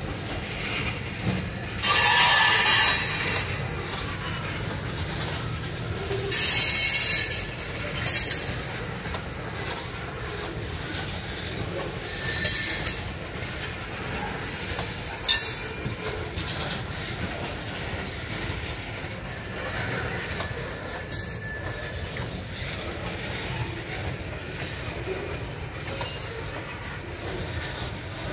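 Loaded freight tank cars rolling slowly past with a steady low rumble of steel wheels on rail. Several high-pitched wheel squeals cut in over it; the two loudest, about two and six and a half seconds in, last about a second each, and shorter, sharper ones follow later.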